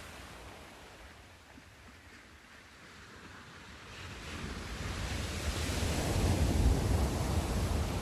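Sea surf: a wave builds from a quiet lull, rising about halfway through to a loud, deep wash of breaking surf that peaks near the end.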